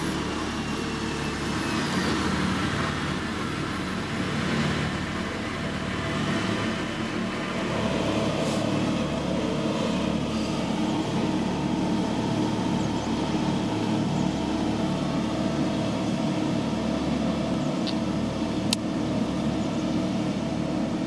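Diesel engine of heavy road-building machinery (motor grader or road roller) running steadily, with a brief sharp click near the end.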